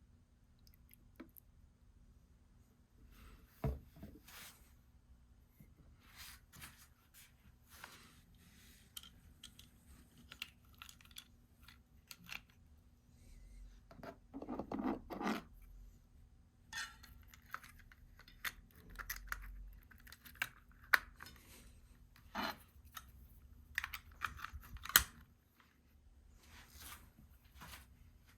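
Sporadic clicks, taps and short scraping and rustling sounds from handling a chain and a chain-cleaning tool, at irregular intervals, in a small room.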